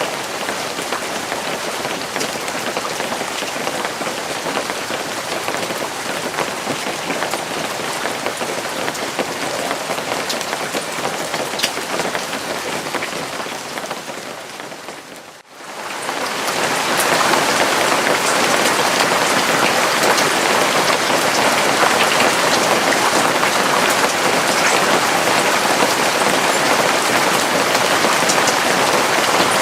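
Steady rain falling, an even hiss with scattered individual drops. About halfway through it fades out briefly, then comes back louder and denser.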